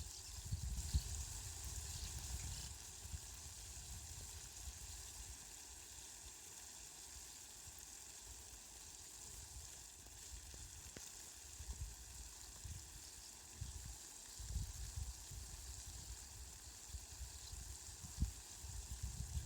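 Steady hiss of falling rain, with a low rumble that comes and goes, heaviest near the start and in the last few seconds.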